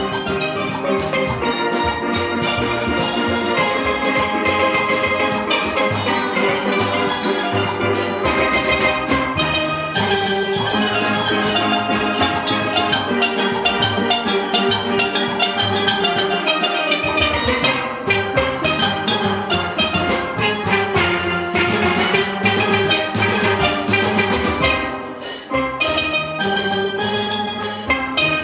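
A steel orchestra playing: many steelpans sounding a fast, rhythmic melody and chords over drum-kit percussion.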